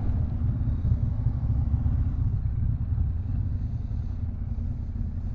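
Yamaha Ténéré 700 parallel-twin motorcycle ridden on city streets: a steady low rumble of engine and wind noise.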